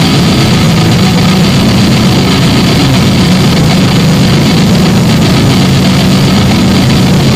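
Harsh noise music: a loud, dense wall of distorted noise, unchanging throughout, heaviest in a low hum.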